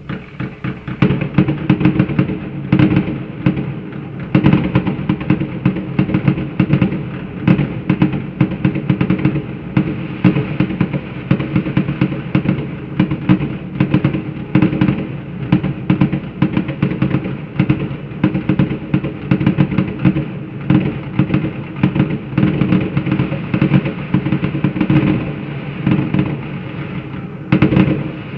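Fireworks salute going off: a dense, continuous run of bangs, several a second, without a break.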